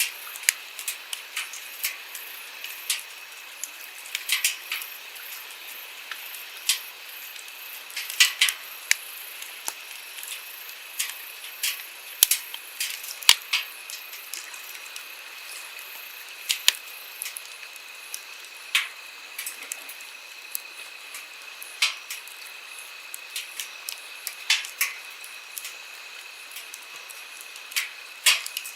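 Wood campfire crackling, with sharp irregular pops and snaps from the burning firewood, some several a second, others spaced out. Beneath them runs a steady rush of flowing stream water.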